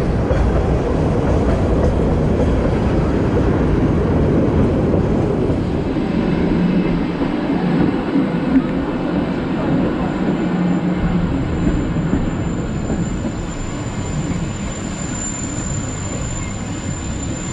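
Little Yellow Train (Train Jaune) running, with a steady rumble and rattle of its wheels on the rails. The lowest rumble drops away about six seconds in, and a thin high squeal builds over the last few seconds.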